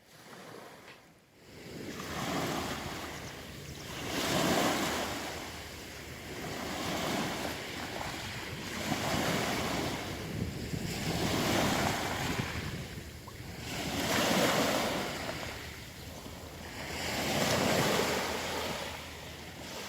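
Sea surf: small waves breaking and washing over a pebble beach, a hissing wash that swells and falls back every two to three seconds.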